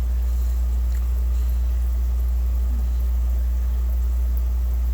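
A steady, low-pitched hum that does not change, with a faint hiss over it.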